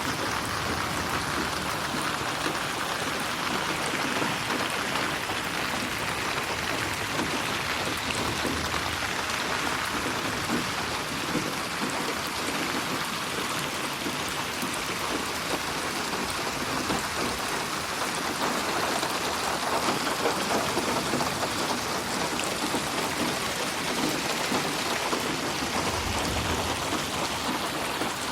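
Steady rain falling and pattering on surfaces, a dense even hiss of drops, with a brief low rumble near the end.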